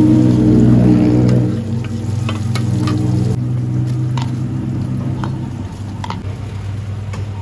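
Mussel omelette sizzling in oil on a large flat pan over a steady low hum, louder for the first second and a half. After that come scattered light clicks and clinks as mussels are scooped with a spoon from ice.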